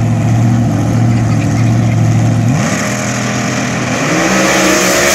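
Supercharged front-engine dragster engine idling with a steady note, then revving, its pitch climbing and growing louder toward the end.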